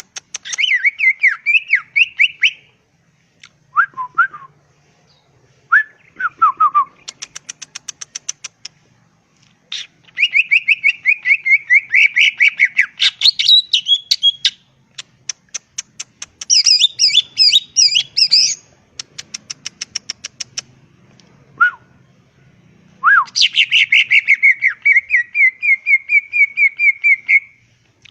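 Green leafbird (cucak ijo) singing a varied, continuous song. Runs of fast, clicky repeated notes alternate with warbled phrases of quick rising and falling notes and short downslurred whistles, with brief pauses between phrases.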